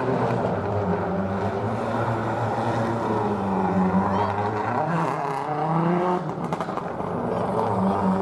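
Rally car engine revving hard, its pitch climbing and dropping again and again through the gears, with a cluster of sharp crackles about six seconds in.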